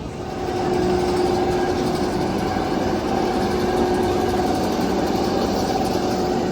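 Roller coaster train running along its track at speed: a steady rumbling rush with a constant whine underneath, getting louder about half a second in and then holding.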